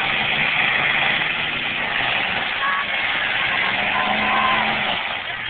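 Demolition derby cars' engines running in the arena, a loud steady din with no crashes heard.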